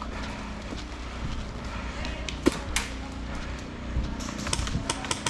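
Sharp cracks of airsoft guns firing: a couple of single shots about halfway through, then a quick string of several shots near the end. A steady low hum runs underneath.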